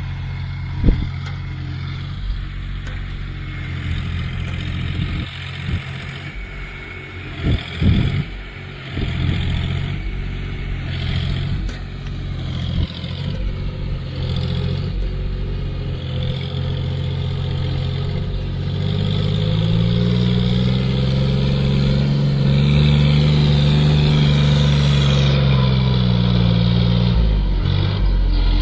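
John Deere tractor's diesel engine running while pulling a trolley, with several sharp clattering knocks about a second in and around eight seconds in. About twenty seconds in the engine revs up, holds, and eases back down near the end.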